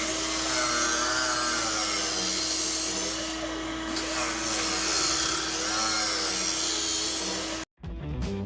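A power tool running steadily on the workpiece, with a wavering whine over a constant hum. It cuts off abruptly near the end.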